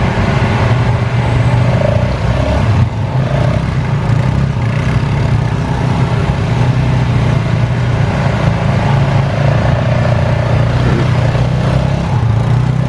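Off-road vehicle engine running steadily, with a low hum that holds roughly level in pitch.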